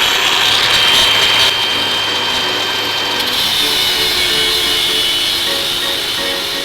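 Handheld electric power tool spinning up with a rising whine and running at steady high speed, slowly fading. Background music with stepped notes comes in near the end.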